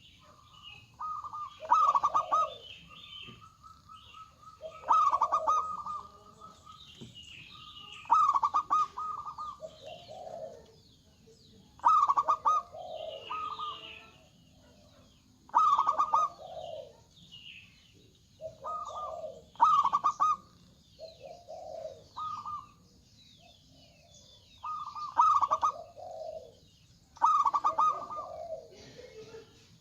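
Zebra dove (perkutut) cooing loudly, repeating its rapid stuttering phrase about every three to four seconds. A strong-voiced local bird.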